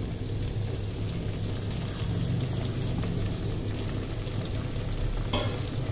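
Pieces of fish frying in hot oil with browned onions and garlic: a steady sizzle.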